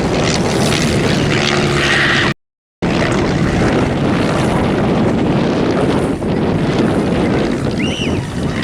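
Stampe SV-4 biplane's piston engine and propeller running steadily as it flies overhead, with wind buffeting the microphone. The sound cuts out completely for about half a second a little over two seconds in.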